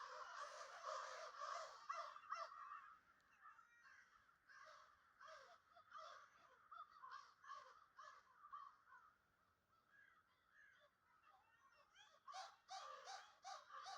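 Birds calling faintly: many short chirps and caws, busiest in the first few seconds and again near the end, with only scattered calls in between.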